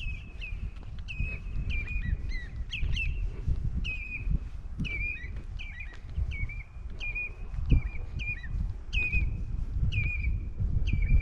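A bird calling over and over, more than once a second, each call a sharp note that drops onto a short held whistle, over a steady low rumble.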